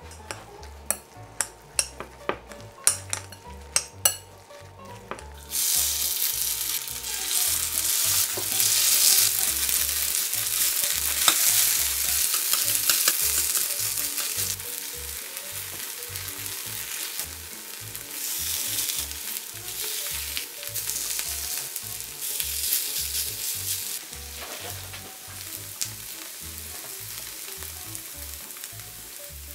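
A few sharp clinks of utensils against glass, then shredded potato pancakes frying in hot oil in a four-cup pan: a loud, steady sizzle that starts suddenly about five seconds in and eases to a softer sizzle near the end as the pancakes brown.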